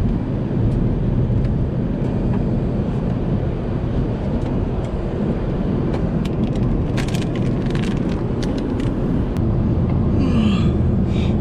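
Steady low rumble of airliner cabin noise inside an Airbus A380 in flight, from air conditioning and airflow, with a few light clicks and clatter near the middle.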